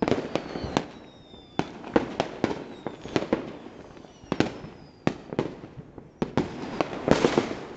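Fireworks going off: a string of a dozen or so sharp bangs, each with a short echoing tail, and thin whistles falling in pitch between some of them. A dense burst of crackling comes about seven seconds in.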